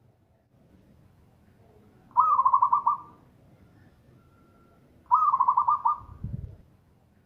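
Zebra dove (local perkutut) cooing: two loud rapid trilled coo phrases about three seconds apart, with a deep low note after the second.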